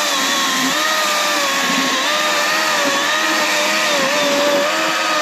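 Kobalt 24V brushless 12-inch electric chainsaw cutting through a rotting log. A steady motor whine with chain noise, its pitch dipping slightly and recovering several times as the chain takes the load.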